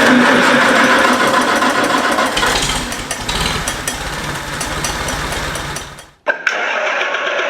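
John Deere diesel engine cold-starting: about two and a half seconds of the starter cranking, then the engine catches and runs with a low rumble that fades out near the end.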